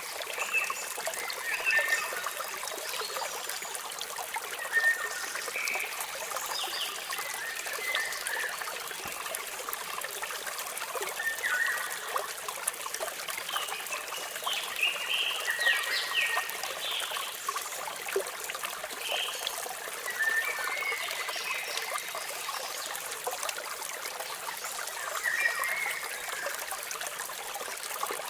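Waterfall water trickling and splashing steadily, with birds chirping in short scattered calls throughout.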